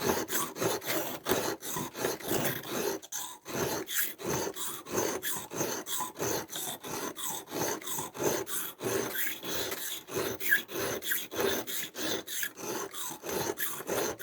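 Victorinox pocketknife blade being stroked back and forth on a coarse sharpening stone, a rasping scrape about three strokes a second. This is the coarse grinding stage that sets a new edge bevel.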